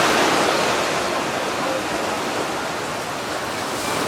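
Steady rush of surf breaking on the beach, an even, toneless noise.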